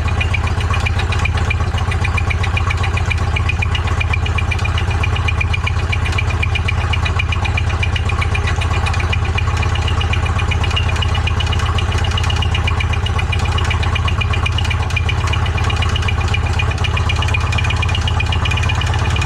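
Polaris RZR engine idling steadily with a rapid, even rattling knock over the hum: the sound of an engine that doesn't sound good, its rod bearings damaged after seizing to the crank from oil starvation, as the owner believes.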